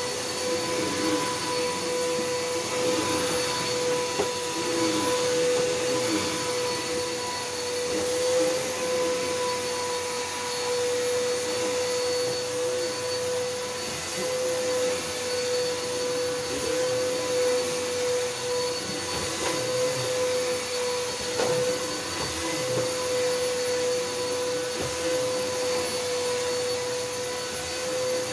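Bissell Helix Power Force upright vacuum cleaner running steadily over carpet: a constant motor whine over a rush of airflow, the loudness rising and falling a little as it is worked back and forth.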